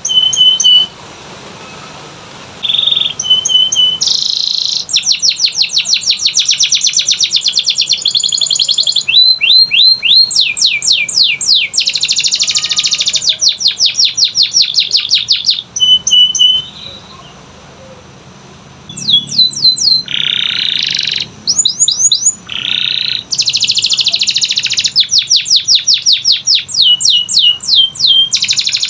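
Domestic canary singing: long rolls of rapidly repeated high notes alternating with rising and falling sweeping phrases, broken by short pauses about a second in and again about halfway through.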